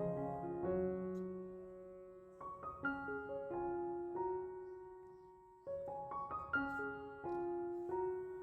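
Soft background piano music: slow phrases of sustained notes that fade between groups of new notes.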